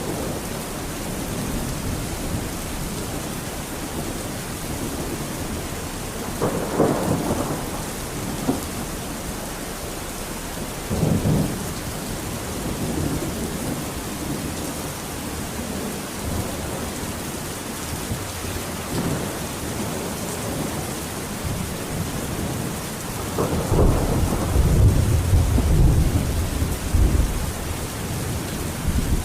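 Steady rain with thunder: two shorter rumbles about 7 and 11 seconds in, and a longer, deeper and louder roll of thunder near the end.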